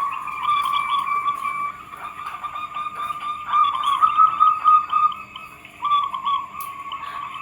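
Zebra doves (perkutut) cooing in rapid, wavering repeated notes, several calls overlapping.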